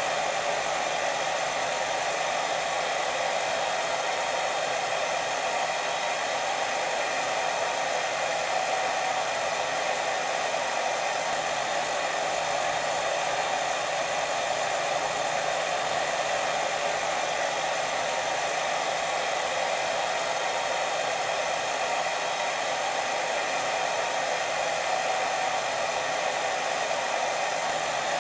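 Steady white noise for sleep: an even, unbroken hiss with no pauses, weighted toward the middle range.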